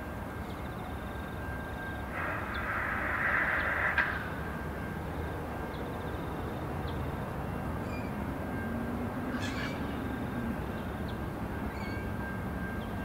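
Diesel-electric locomotives of a loaded rail train approaching slowly at a distance, giving a steady low engine rumble. A bird calls for about two seconds starting two seconds in, ending with a sharp click, and a few short bird chirps come and go.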